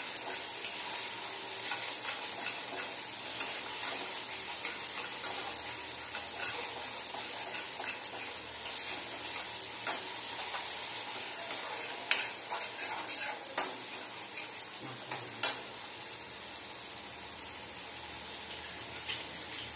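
Spice masala frying in oil in a steel kadai: a steady sizzle with scrapes and clicks of a metal spatula stirring against the pan, and a few louder clicks about 12 and 15 seconds in. The masala is being fried down until the oil separates.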